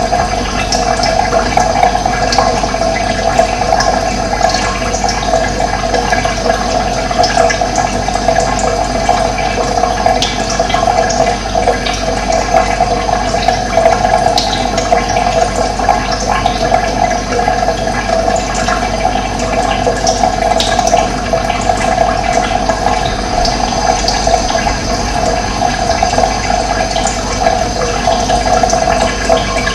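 Running water rushing steadily, with a few faint short bird chirps now and then.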